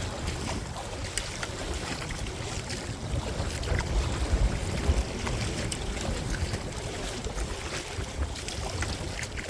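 Wind rumbling and buffeting on the microphone over choppy water splashing and slapping around a small kayak, with scattered drips and splashes; the gusts are strongest about halfway through.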